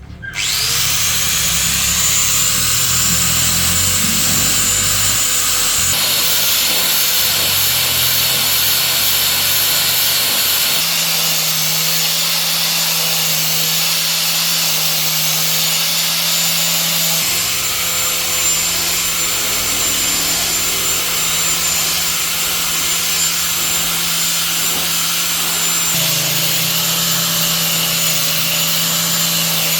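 Power tool switched on and running steadily: a loud hiss with a thin high-pitched whine.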